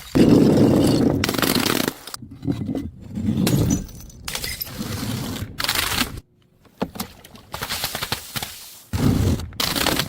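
A run of short clips of objects being crushed and broken: cracking, crunching and scraping, with sudden cuts between clips about 2, 6 and 9 seconds in.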